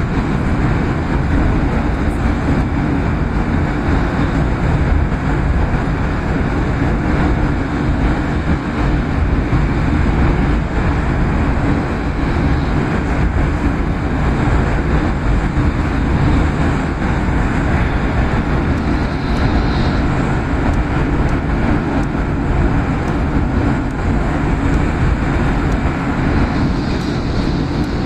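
Tohoku Shinkansen bullet train running at speed, heard from inside the passenger cabin: a steady low rumble and hiss of wheels, track and air.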